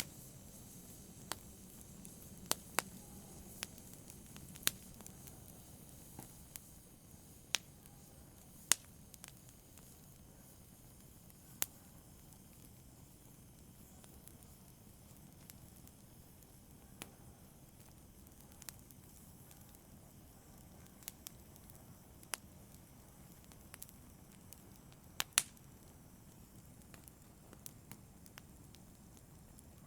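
Wood fire in a fireplace crackling: sharp, irregular pops a second to several seconds apart over a soft, steady low rush of burning.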